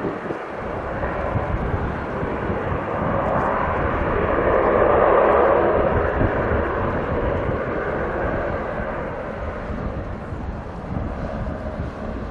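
Turboprop airliner passing, its engine noise swelling to a peak about five seconds in and then slowly fading.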